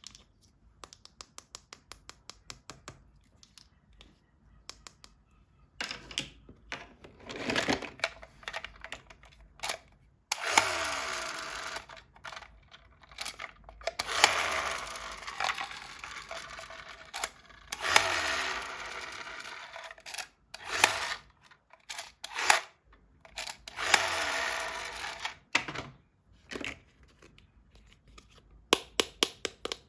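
Plastic toys and packaging being handled during an unboxing: a run of quick clicks, then several longer stretches of clattering and rattling.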